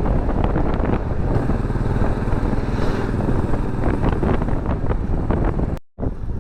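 Motorcycle running at highway speed, with heavy wind rushing over the microphone. The sound cuts out completely for a moment near the end.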